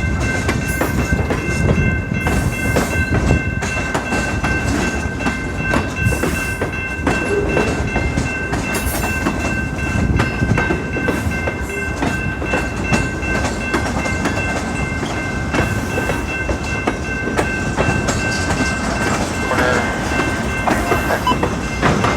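Freight train cars rolling past: a dense, steady rumble with wheels clicking over rail joints. A thin, steady high-pitched ringing tone runs underneath.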